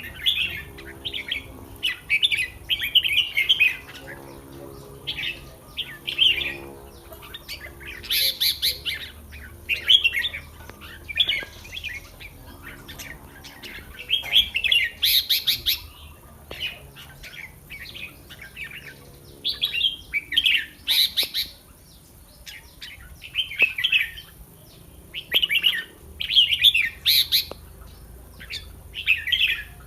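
Red-whiskered bulbuls singing: short, chattering phrases repeated every second or two, a few of them louder and higher-pitched.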